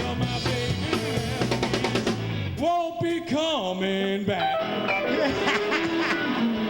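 A band playing with a drum kit, bass and a melody line that wavers in pitch, without words.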